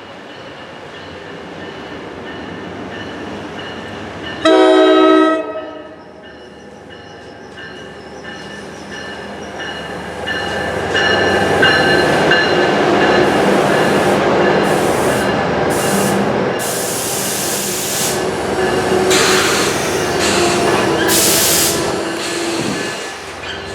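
New Jersey Transit GP40PH-2B diesel locomotive sounding one short horn blast about four and a half seconds in as it approaches. The locomotive and its work train then pass close by, with the diesel engine running under loud wheel and rail noise that eases near the end.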